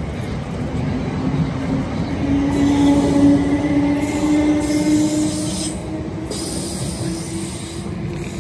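South Western Railway electric multiple unit pulling out of the platform and accelerating away: a motor whine rising slowly in pitch over the running noise of its wheels on the rails, loudest in the middle and fading as the train recedes.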